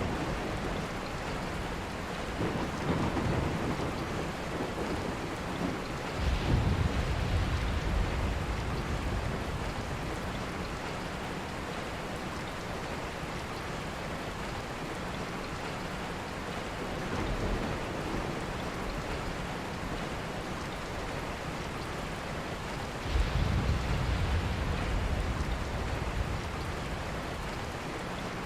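Steady rain, with several low rumbles of thunder rolling through it. The strongest rumbles begin about six seconds in and again about three-quarters of the way through.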